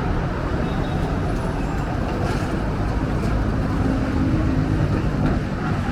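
Wind buffeting the microphone: a steady, heavy low rumble with no pauses.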